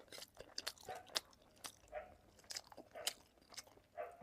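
A person chewing food close to the microphone: irregular short wet clicks and smacks, two or three a second.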